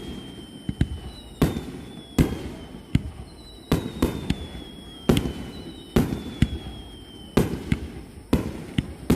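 Fireworks display: aerial shells bursting in quick succession, sharp bangs about two a second with short echoing tails. Over them, repeated whistles last about a second and a half each and fall slightly in pitch.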